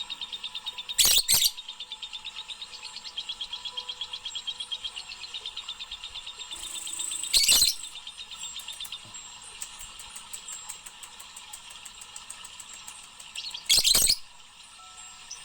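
A three-month-old lovebird chattering in a fast, even run of chirps, broken three times by a loud, short, shrill burst; the chirping gives way to softer rapid ticks in the second half.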